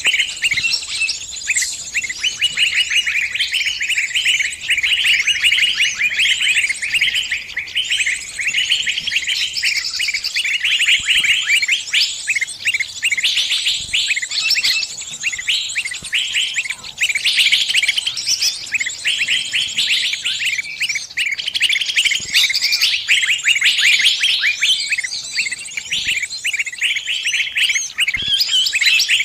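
Small bird giving dense, rapid, high chirping distress calls, the cries of a bird caught in a trap calling its flock for help.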